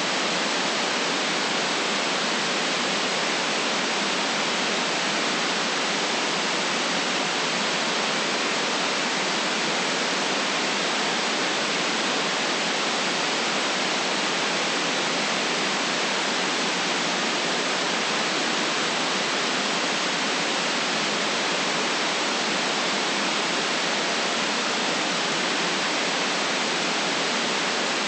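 Steady, unchanging white noise: an even hiss with no deep rumble and no highest treble.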